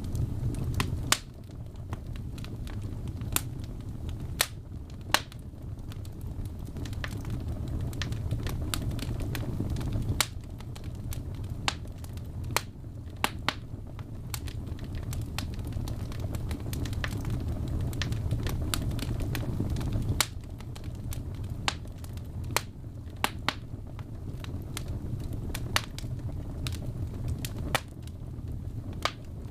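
Wood fire burning in a fireplace: a steady low rumble of flames with irregular sharp crackles and pops, a few of them louder snaps.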